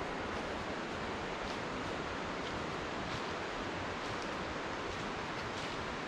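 Steady rushing of running water, an even hiss with no change in level, with a few faint high ticks over it.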